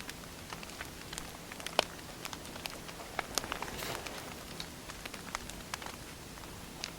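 Burning firewood crackling, with irregular small pops, a sharper pop about two seconds in and a brief hiss just after the midpoint.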